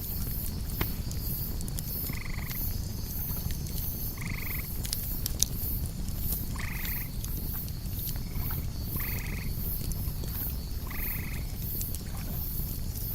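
Campfire crackling with scattered sharp pops over a low rumble, under a steady high chirping of crickets. A night animal gives a short piping call five times, about two seconds apart.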